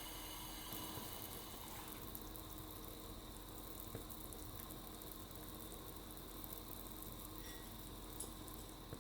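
Food sizzling and crackling in a frying pan, steady throughout, with a few faint clicks.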